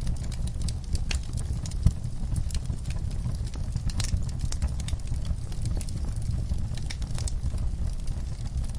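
Wood fire burning in a fireplace: a steady low rumble of flames with irregular crackles and pops, a few louder snaps among them.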